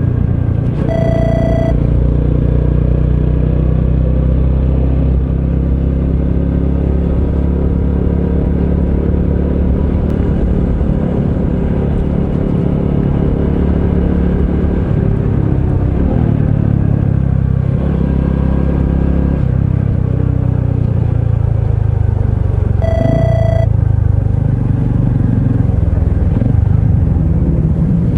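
Honda CT125 Hunter Cub's single-cylinder engine running while riding, its pitch shifting a few times with the throttle. Two brief high tones sound, about a second in and again near the end.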